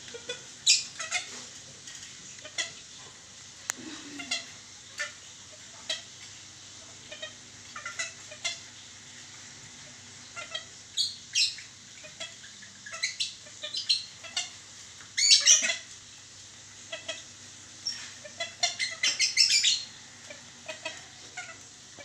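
Birds giving short chirps and squawks in scattered bursts, with a dense, loud flurry about fifteen seconds in and another near the end.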